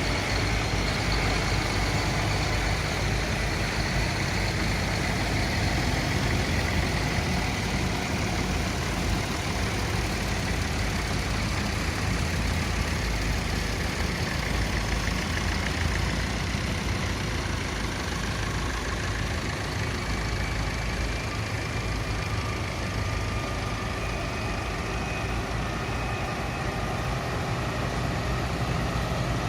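A vehicle engine running steadily, an even low rumble that does not change.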